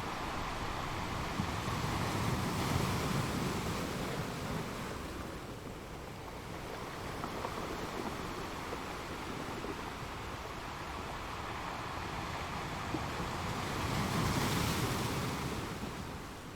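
Ocean waves washing on the shore in a steady rush, with two bigger swells, one about two seconds in and another near the end.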